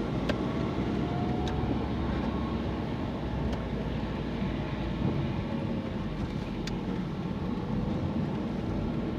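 Steady road and engine noise inside a moving car's cabin, with a faint engine tone that slowly rises and falls and a few faint clicks.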